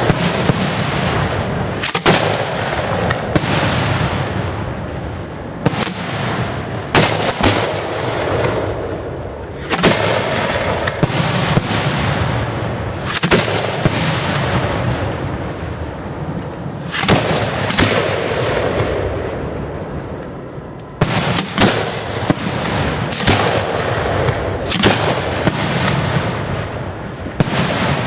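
A 1.3G fireworks display firing: sharp bangs from shells every second or two, some in quick clusters, over a continuous crackling rumble, with a short lull a little after two-thirds through.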